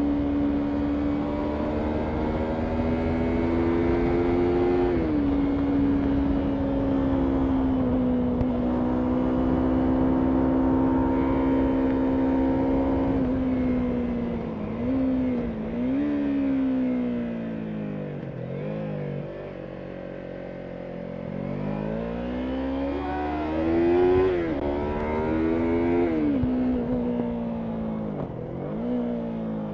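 Yamaha MT-03 motorcycle engine under way uphill, holding steady high revs for about the first half, then falling and climbing in pitch several times as the rider backs off and accelerates again, with wind rush underneath.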